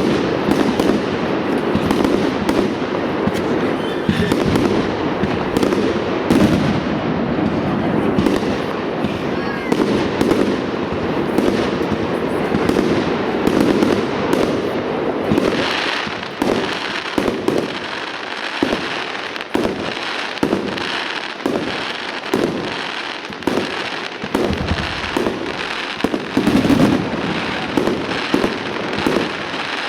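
Fireworks display: a continuous barrage of aerial shell bursts, several bangs a second, with crackle that grows more prominent from about halfway through.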